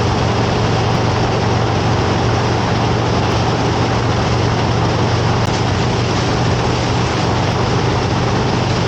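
Wind rushing over the microphone with the steady drone of a Harley-Davidson Road Glide's V-twin engine underneath, riding at an unchanging speed.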